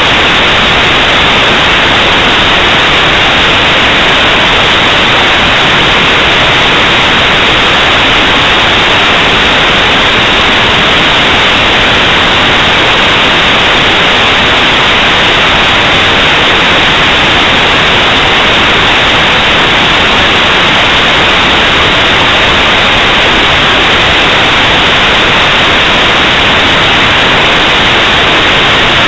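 Loud, steady static hiss, unchanging throughout, with nothing else heard over it.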